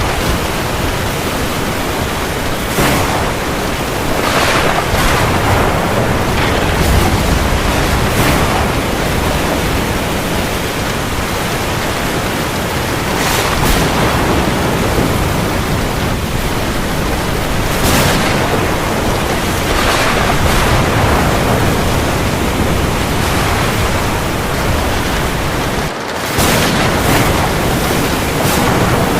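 Steady heavy rain falling on the sea, a dense hiss that swells louder every few seconds, with a brief dip near the end.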